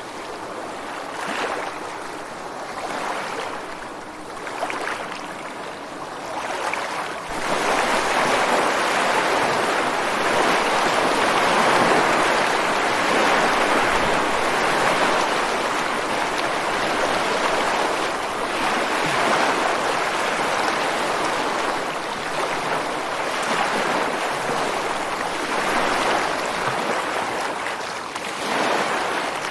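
Ocean waves breaking on the shore: softer washes of surf for the first several seconds, then a bigger wave crashes about seven seconds in and its roaring wash carries on loudly, easing slightly near the end.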